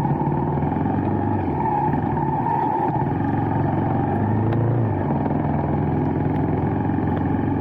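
A motor vehicle's engine running steadily while driving, its low hum shifting in pitch a little about four to five seconds in.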